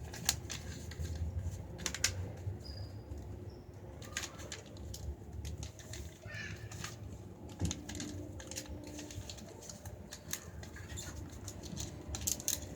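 A sheet of paper rustling and crackling as it is folded and creased by hand, with many short, sharp crinkles.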